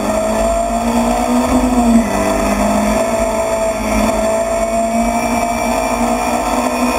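Rally car engine running hard at high revs, heard from inside the stripped, roll-caged cabin. The engine note holds fairly steady and dips briefly a couple of times.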